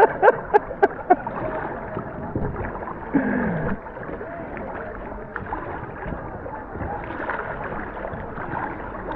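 Kayak paddles dipping and splashing, with water washing and gurgling around the boat. There are a few sharp knocks in the first second.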